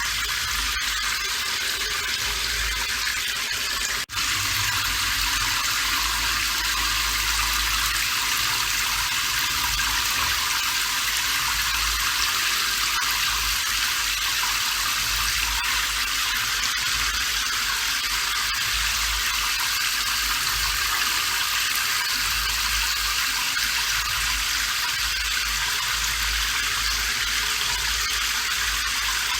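Steady rain falling, a dense even hiss with a low rumble beneath it, broken by a brief drop-out about four seconds in.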